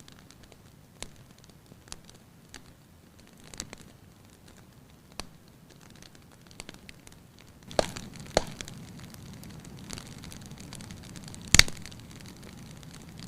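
Wood fire crackling in a fireplace: scattered sharp pops and snaps over a low hiss. The hiss grows a little louder with two louder snaps about two-thirds of the way in, and the loudest crack comes near the end.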